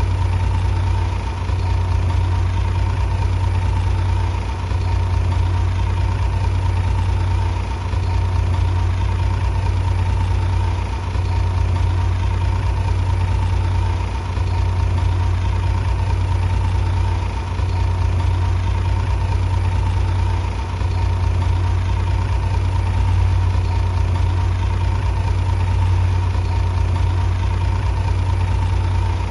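Heavy diesel engine of a bulldozer running steadily, a deep drone that dips slightly about every three seconds.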